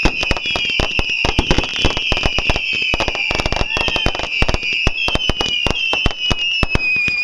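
Fireworks going off: a continuous shrill, slightly wavering whistle from whistling fireworks, mixed with rapid, irregular sharp cracks and pops.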